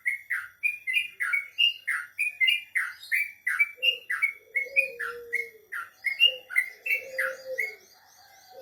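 Crocokan songbird singing energetically: a rapid, steady string of short, sharp downward-slurred notes, about two or three a second. From about four seconds in, a lower, drawn-out call joins three times beneath it.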